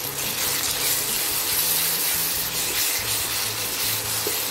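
Tomato purée and onions sizzling in hot oil in a non-stick pan over high heat: a dense, steady hiss that swells as the wet purée hits the oil. A wooden spatula stirs and scrapes through it.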